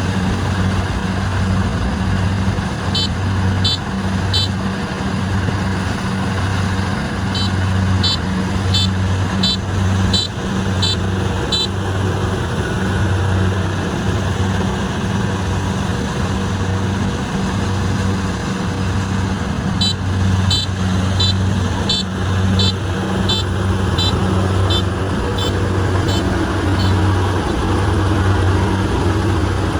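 Kubota combine harvester's diesel engine running steadily with an even low throb. Three runs of short, high beeps, about two a second, sound over it.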